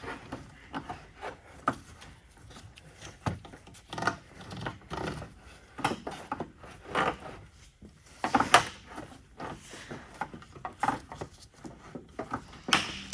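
Irregular knocks, clicks and rubbing as car parts and tools are handled, with a sharper knock about two-thirds of the way through and another near the end.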